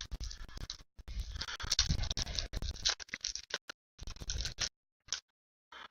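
Rustling and scratching of a trading-card pack being opened and the cards handled: uneven bursts of crinkle and small clicks, with short pauses about a second in and near the end.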